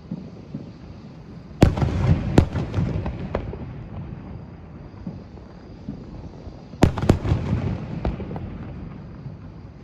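Aerial fireworks bursting: a sharp bang about one and a half seconds in and a second a moment later, trailing off in a low rumble, then another pair of bangs about five seconds later, also fading out.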